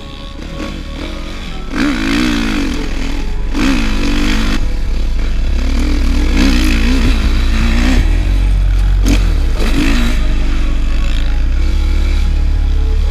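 Motocross dirt bike ridden on track, its engine revving up and down with throttle and gear changes, heard from a helmet-worn GoPro.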